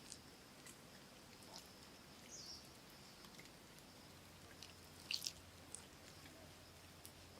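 Quiet jungle ambience: a faint, steady high-pitched drone, typical of insects, with a couple of short chirps and scattered soft clicks. A brief cluster of louder clicks comes about five seconds in.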